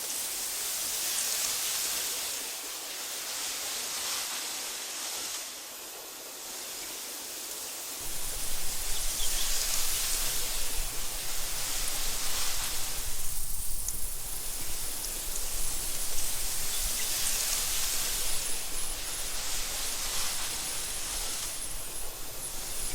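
Wind blowing through tall meadow grass, a soft hiss that swells and fades in slow gusts every several seconds. About eight seconds in, a low rumble joins and the sound grows louder.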